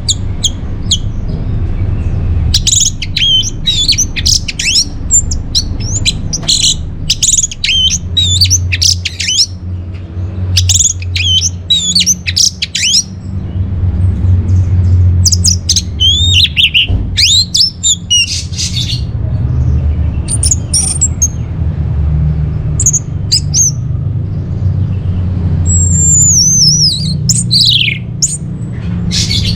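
Orange-headed thrush (anis merah) singing: bursts of rapid, varied high whistles and chattering notes, broken by short pauses between phrases, over a steady low hum.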